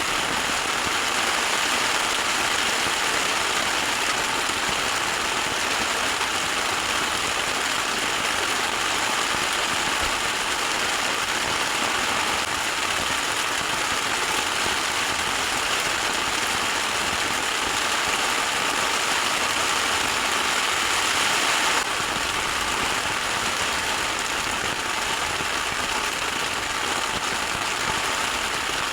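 Heavy rain drumming steadily on a tent in a torrential downpour, dropping a little in loudness about three-quarters of the way through.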